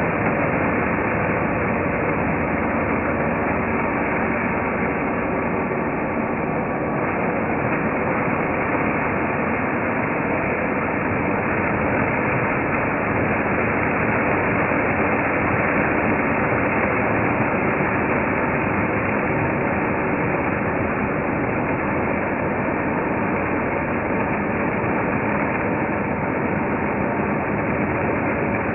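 1993 Hoover Turbopower 2 U2464 upright vacuum cleaner running with a steady, unchanging motor noise.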